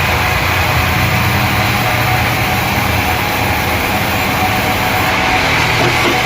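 Sawmill machinery running with a loud, steady, engine-like drone.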